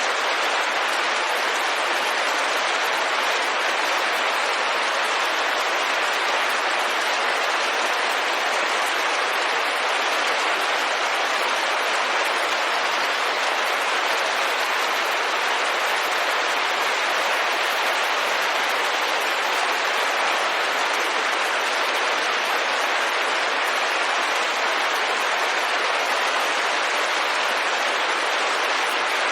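Steady rain falling on a window: a dense, even hiss with no single drops or thunder standing out.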